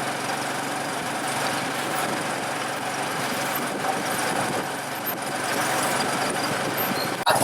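Motor vehicle engine running steadily, with a brief dropout just before the end.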